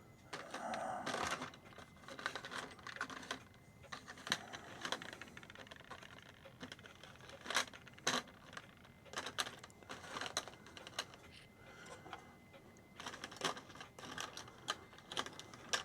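Irregular small clicks and taps of clock parts and screws being handled while the clock movement is fitted into its case, with a brief rustle about a second in.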